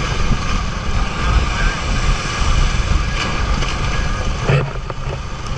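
Fishing boat's engine running steadily, with wind rumbling on the microphone.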